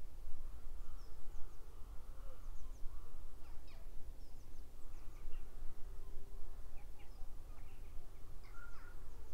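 Small birds calling in short, scattered chirps, several a second at times, over a steady low rumble.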